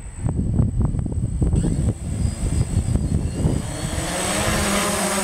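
Wind gusts buffet the microphone at first. Then the propellers of a DJI Phantom quadcopter come up as a rising hiss, settling about halfway through into a steady whining hum.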